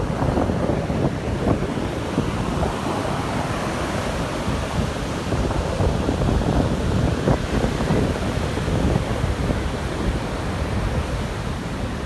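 Sea surf washing on the shore with wind buffeting the microphone, a steady rush of noise with no break.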